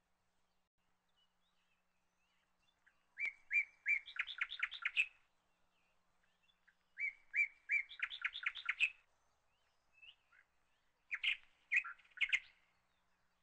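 A songbird singing three short phrases, each a few clear notes followed by a quick run of notes, with quiet gaps between them.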